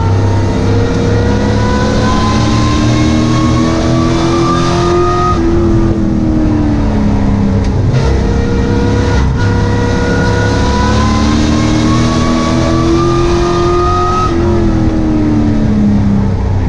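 Sport truck race engine heard from inside the cab under racing load. It climbs steadily in pitch for about five seconds and then drops off for a couple of seconds, twice over: full throttle down a straight, then lifting for the turn.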